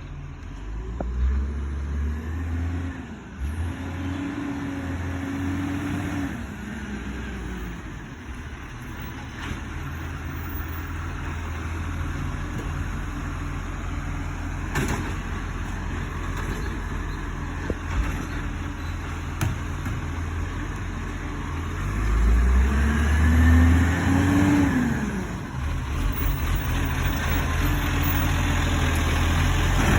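Garbage truck engine running, revving up and back down twice: once near the start and again, more strongly, about three-quarters of the way through.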